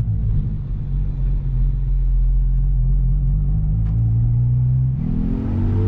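Car engine running at low, steady revs, then rising in pitch about five seconds in as the car accelerates.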